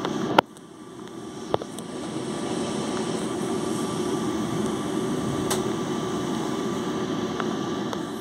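Running noise of a passenger train heard from inside a coach: a steady rumble of wheels on rail. A sharp click comes just under half a second in, after which the noise dips and builds back up over the next couple of seconds, then holds steady.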